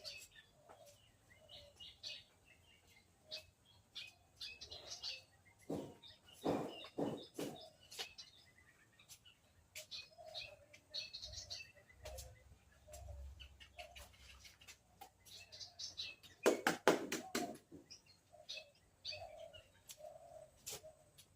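Small birds chirping on and off with short, high calls, with two bursts of sharp clicks and crackles, about six seconds in and again near the end, the loudest sounds.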